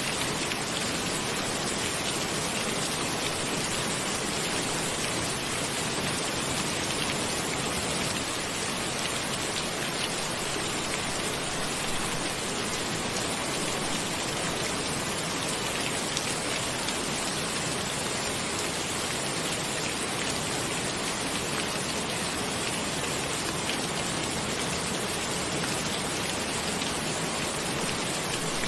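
Steady rain falling, an even hiss of many fine drops with no thunder or gaps.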